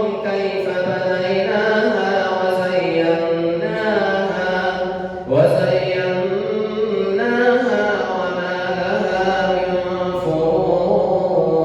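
A male reciter chanting the Quran in a melodic, drawn-out style, holding long wavering notes, with a short breath about five seconds in.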